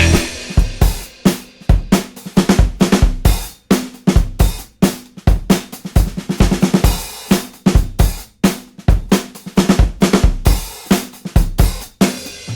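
Rock drum kit playing on its own: a busy pattern of kick drum, snare, hi-hat and cymbal hits.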